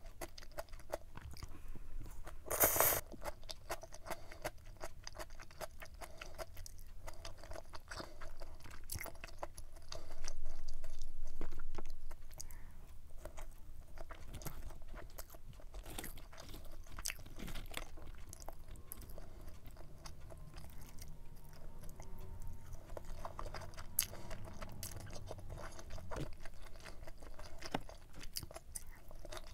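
Close-miked chewing of stir-fried pork intestines with vegetables, moist and crunchy, with small clicks and smacks throughout. There is a short, sharp louder noise about three seconds in, and a louder patch of about two seconds around ten seconds in.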